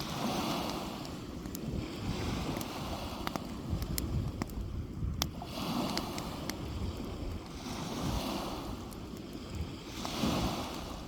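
Small waves washing onto a beach, swelling and fading every few seconds, with sharp pops and crackles from a wood beach fire. Wind rumbles on the microphone underneath.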